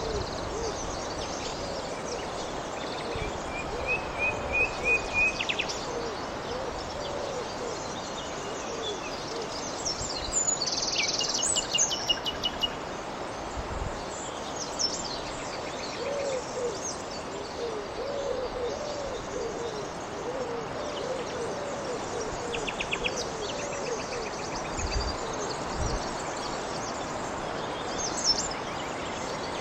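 Birds calling over a steady hiss: a low hooting call repeated in short runs, with higher chirps and trills now and then.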